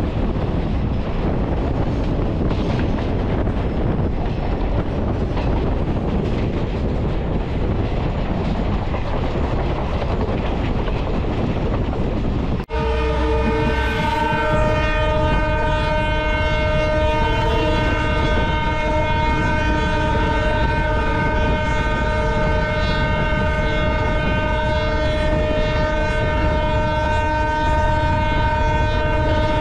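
Passenger train running, heard from an open door: a steady rumble of wheels on rails with wind noise. After a sudden break about 13 seconds in, a steady whine made of several held tones sits over the running noise.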